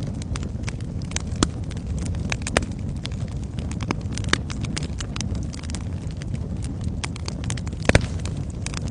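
Wood fire crackling: a steady low rumble of burning with frequent sharp, irregular pops and snaps, the loudest crack just before the end.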